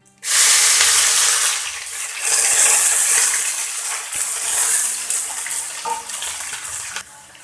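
Finely chopped onions tipped into hot oil with whole spices, sizzling loudly at once. The hiss sags briefly about two seconds in, swells again, then slowly fades near the end as the onions start to fry.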